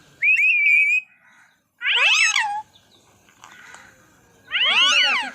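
Pet parrot giving three loud, meow-like calls, each under a second long: first a short warbling whistle, then two cries that rise and fall in pitch.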